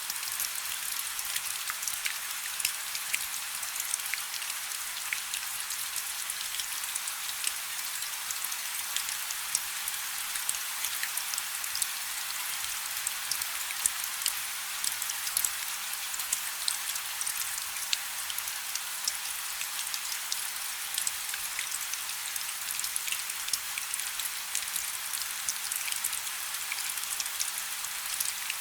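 Light rain falling: a steady hiss thick with many small, sharp drop ticks.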